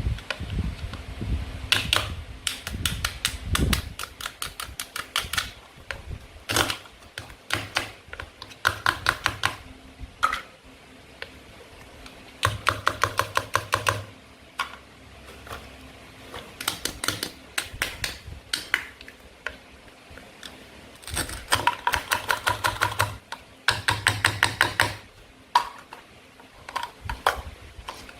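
Toy knife working through play-food toys: runs of rapid hard clicks, about seven a second, each run lasting a second or two with short pauses between.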